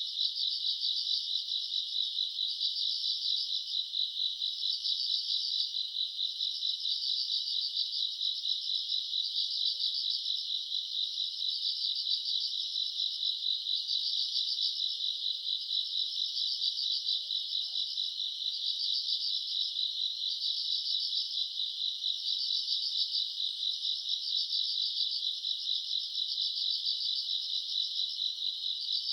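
Night chorus of crickets and other grass insects chirping steadily: a dense, high trill that swells and eases in a slow rhythm about every two seconds.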